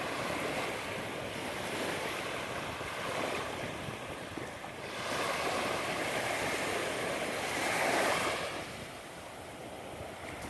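Ocean surf washing onto a beach, with wind buffeting the microphone. The rush of water swells about five seconds in, peaks near eight seconds, then eases off.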